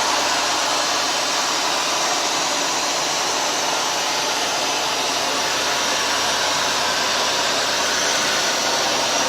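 Hoover Dual Power Max carpet washer running steadily, its motor giving an even whirring noise as it works over the carpet.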